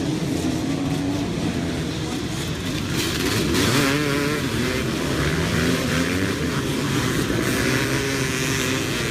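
A pack of dirt bike engines revving and accelerating together, several engine notes overlapping and rising and falling. It grows louder and harsher from about three seconds in.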